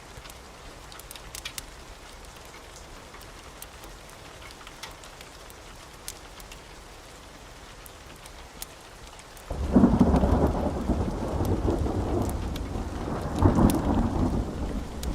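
Wood fire crackling softly with a few scattered pops, then, about nine and a half seconds in, a sudden loud deep rumble sets in and keeps going, swelling again near the end.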